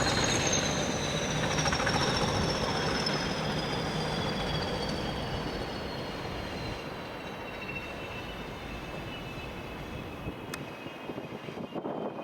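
A train running past and moving away: its rumble fades steadily while high whining tones slowly fall in pitch.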